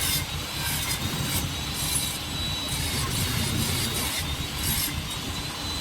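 Repeated rubbing or scraping strokes, about one to two a second, over a low steady rumble and a thin high whine.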